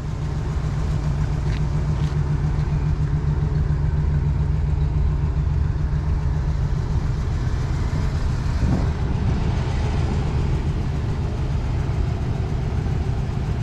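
1950s Oldsmobile convertible's engine idling steadily with an even low rumble.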